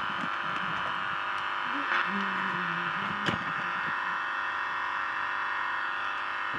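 Steady buzzing hiss from a loudspeaker driven by a CD6283 amplifier board, with a faint pitched sound under it about two seconds in and a sharp click a little after three seconds.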